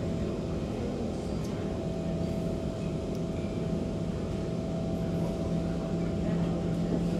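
Kawasaki C151 metro train running between stations, heard from inside the car: a steady rumble of wheels on track with a low and a higher steady hum from the running gear and traction equipment.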